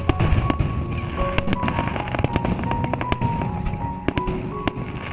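Aerial fireworks bursting: many sharp bangs and crackles at irregular intervals over a low rumble. Music with held notes plays underneath.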